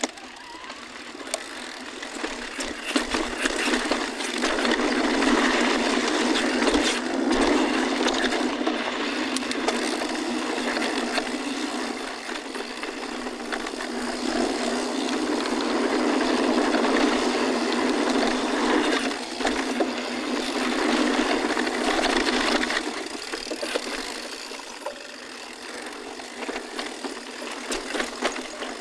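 Mountain bike riding over rocky dirt singletrack: tyre noise with rattles and clicks from the bike. It is louder from about 4 to 12 seconds and again from 14 to 23 seconds, then quieter near the end.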